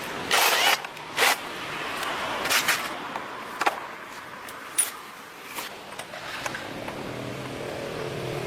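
Several sharp clanks and scrapes of hand work, then a steady mechanical hum sets in near the end.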